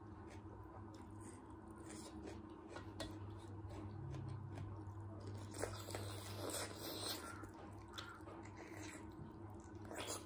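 Close-up mouth sounds of a person chewing and gnawing chicken off the bone: scattered wet clicks and squishes, busiest about six to seven seconds in, and a sharp wet smack near the end.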